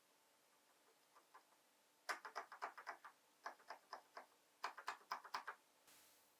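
Durock V2 plastic keyboard stabilizer parts being handled and clicked, in three quick runs of small sharp clicks with short pauses between them.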